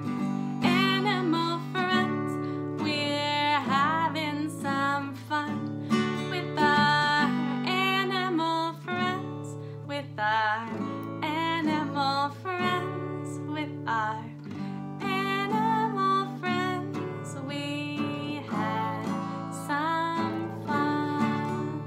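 Acoustic guitar strummed in a steady, upbeat song, with a woman's voice singing the melody over it.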